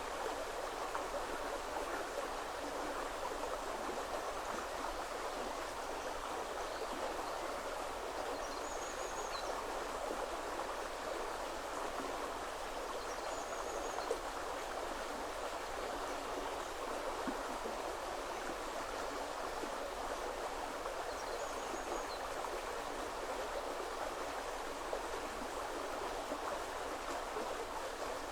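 River water flowing steadily, an even, unbroken sound of running water. A bird calls faintly three times, each call a brief high note.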